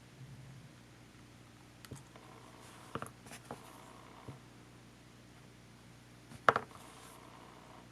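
A few scattered small clicks and taps, like small parts and a tool being handled while a compact camcorder is taken apart. The loudest is a sharp click about six and a half seconds in. A low steady hum runs underneath.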